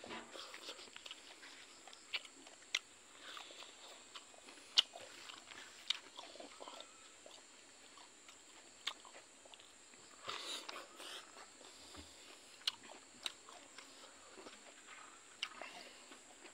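Close mouth sounds of a man chewing a mouthful of silkworm pupae and rice: soft, scattered wet clicks and smacks, with a slightly louder patch of chewing about ten seconds in.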